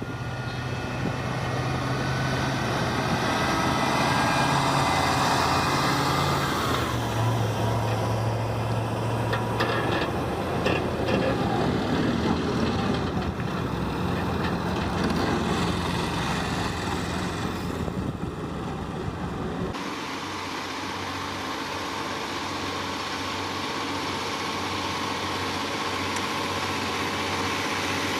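Heavy vehicle engines running, the sound changing abruptly twice, about a quarter of the way in and again about two-thirds in, as one machine gives way to another.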